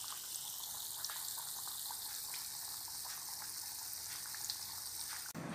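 Oil sizzling steadily with scattered small crackles as potato-and-meat keftedes shallow-fry in a pan. The sound cuts off suddenly near the end.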